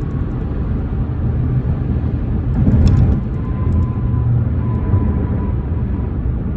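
BMW M4 Competition running with a steady low rumble, swelling briefly about three seconds in.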